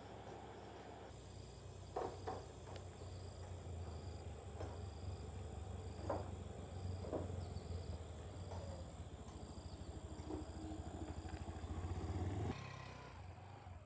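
A motor running steadily with a low, pulsing hum, starting about a second in and cutting off suddenly near the end, with a few sharp knocks over it. Faint regular insect chirping goes on behind.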